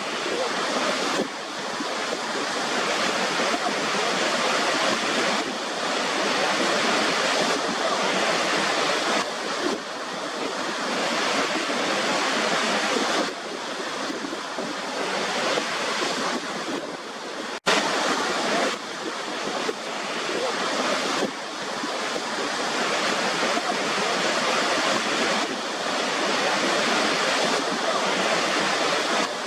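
Waterfall: a steady rush of falling water. It breaks off for an instant about two-thirds of the way through, then carries on.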